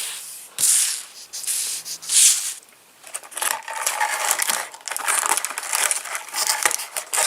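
Foil trading-card packets and cards being handled: wrapper crinkling and tearing, and cards rubbing and sliding against each other. A few separate rustles come first, then about three seconds in a denser run of crackling with small clicks.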